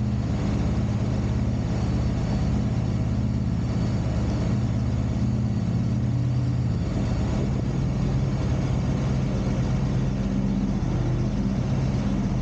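Peterbilt semi truck's diesel engine running steadily at low speed, its note shifting slightly about seven seconds in.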